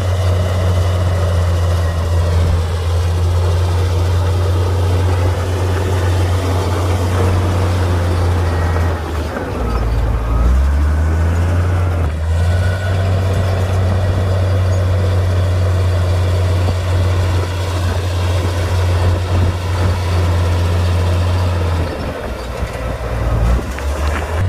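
Komatsu D58P bulldozer's diesel engine running steadily while working. Its note drops and picks back up about ten seconds in, and sags again near the end.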